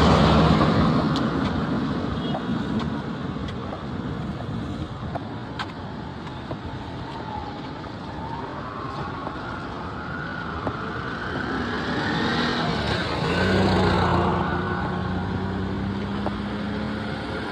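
Road traffic: motor vehicles driving past. It is louder near the start and again about three-quarters through, when an engine passes close.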